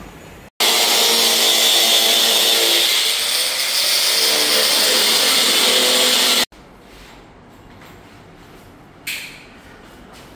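A power tool running hard for about six seconds, starting and stopping abruptly, with a short sharp noise near the end.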